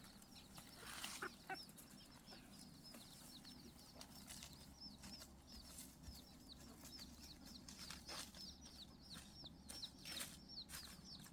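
Chicken peeping faintly: a steady run of short, high, falling chirps, a few each second, with a few soft knocks scattered among them.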